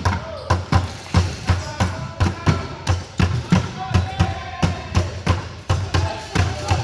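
Basketballs bouncing on a gym floor in quick, uneven thumps, about three or four a second, echoing in the hall.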